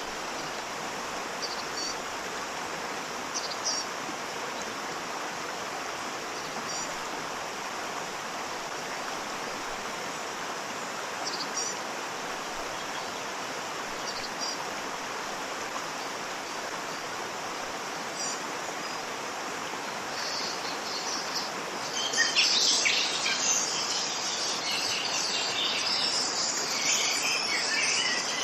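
Steady rushing of a waterfall, with a few short bird chirps over it. About three-quarters of the way through, a spell of dense, louder birdsong sets in and becomes the loudest sound.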